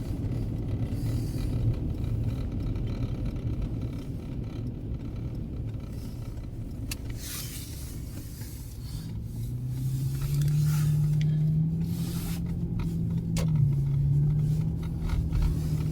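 Car driving, heard from inside the cabin: a steady low road and engine rumble. About nine seconds in, a steady engine hum comes up and the sound gets louder.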